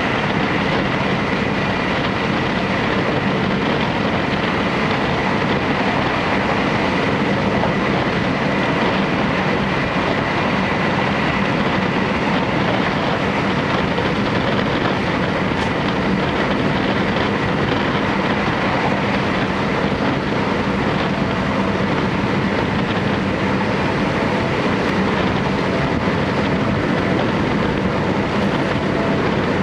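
Series 711 electric train heard from inside the passenger car while running at speed: a steady rumble of wheels on rail, with a thin high tone over it.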